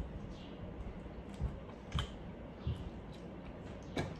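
Close-miked eating of a lamb chop: chewing with scattered soft mouth clicks and smacks, a sharper click about two seconds in and another near the end.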